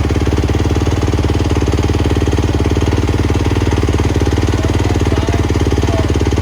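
An engine running steadily at a constant speed, a rapid, even pulsing that does not change.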